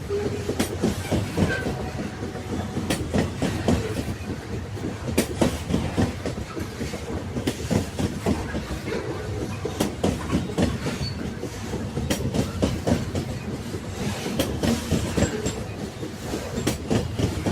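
Railway carriages rolling along the track: a steady low rumble with repeated clacks of the wheels over rail joints.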